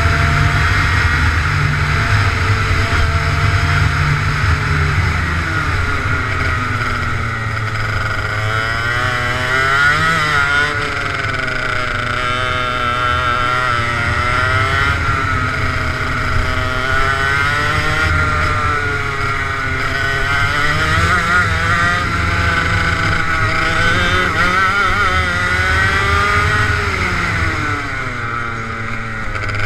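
Go-kart engine running hard on track, its pitch climbing under acceleration and dropping off again several times in a row, as on a lap of corners and short straights.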